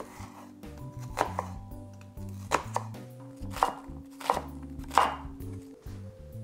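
Chef's knife chopping an onion on a wooden cutting board: several sharp knocks, some in quick pairs, over soft background music.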